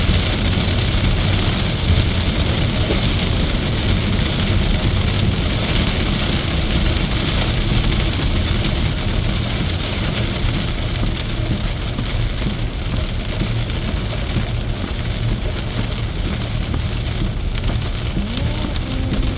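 Heavy rain on a car's roof and windshield, heard from inside the cabin while driving on the highway, with tyre and road noise under it: a steady, loud wash.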